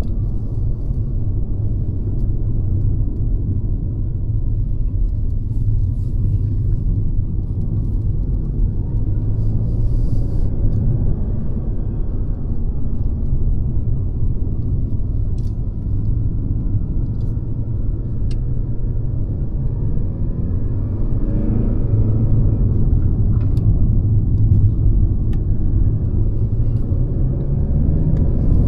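Mercedes-Benz C-Class (W206) driving: a steady low engine and road rumble, with the engine note climbing in pitch about three-quarters of the way through and again near the end.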